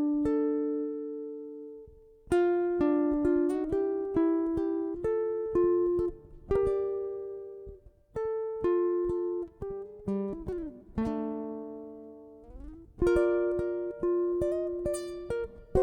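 Guitar played alone: plucked notes and chords each ringing out and fading. About ten seconds in, one ringing string slides down in pitch and back up before the next chord.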